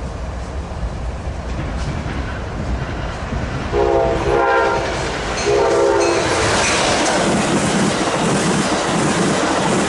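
Amtrak Pacific Surfliner passenger train sounding its horn in two blasts, a longer one then a shorter one, as it approaches. It then passes close by with loud running noise and rhythmic wheel clickety-clack over the rail joints.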